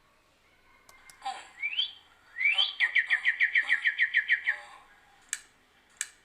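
Bird-call sound effect played back: a rising whistle, then a fast trill of about fourteen short falling notes. A few sharp mouse clicks follow near the end.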